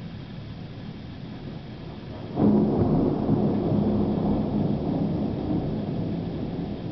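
Thunder in a snowstorm (thundersnow): a sudden loud clap about two and a half seconds in, followed by a long rumble that slowly fades.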